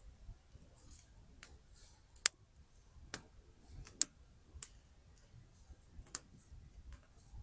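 Wood campfire crackling: irregular sharp snaps and pops from the burning logs, the two loudest about two and four seconds in, over a soft low rumble.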